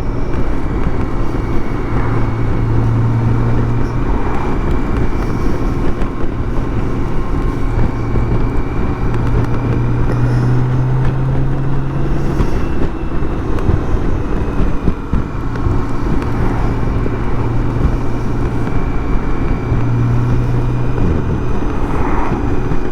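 BMW K1600 GTL's inline-six engine running on the road under wind and road noise. Its steady note climbs gently, drops away about halfway through, and comes back a few seconds later.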